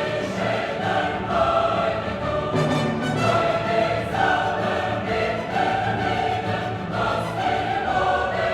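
Background choral music: a choir singing long held notes.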